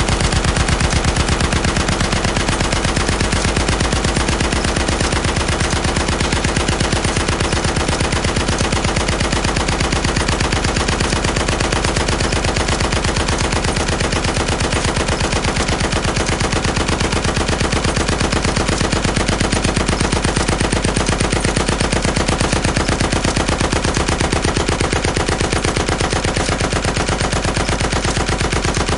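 Automatic gunfire: a fast, even stream of shots that runs without a break.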